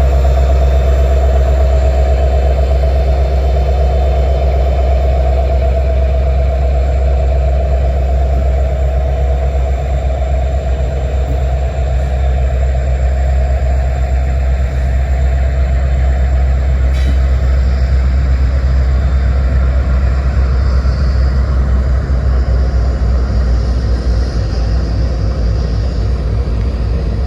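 Diesel-electric freight locomotive engines running, with a loud, steady low drone that eases slightly near the end. A single sharp click comes about seventeen seconds in.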